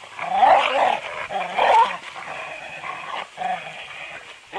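A dog vocalizing, with two loud outbursts in the first two seconds followed by quieter ones.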